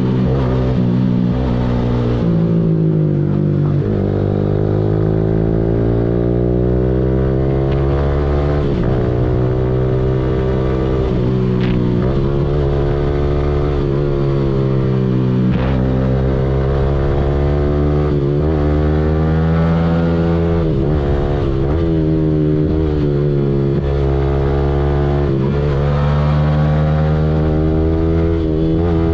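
Yamaha R15M's 155 cc single-cylinder engine through a Yahom aftermarket exhaust, riding under way: the pitch climbs under throttle and drops back again and again as the rider accelerates and eases off or changes gear.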